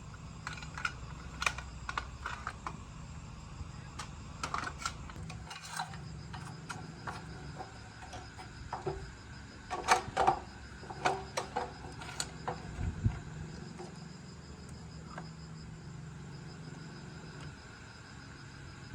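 Scattered light metallic clinks and taps of hand tools and small metal parts being handled, thickest about ten seconds in. Crickets chirp steadily behind them over a low hum that fades about two thirds of the way through.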